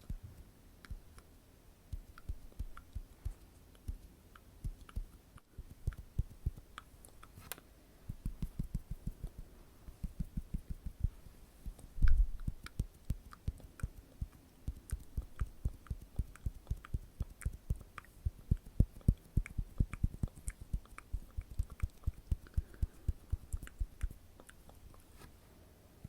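Close-miked ASMR trigger sounds: soft taps and thuds right at the microphone, sparse at first and then several a second, with a few faint clicks and one louder thump about twelve seconds in.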